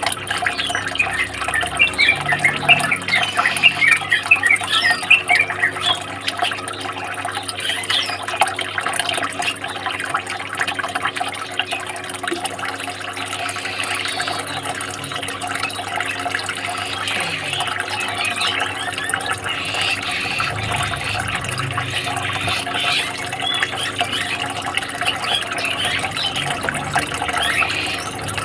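Steady running, trickling water with small birds chirping in quick bursts over it, a therapy sound played to calm stressed cage songbirds and set them singing again.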